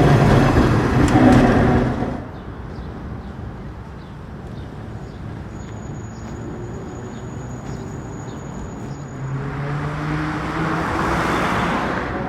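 Street vehicles passing: a loud pass cuts off about two seconds in, then another vehicle approaches near the end with a low hum rising slightly in pitch.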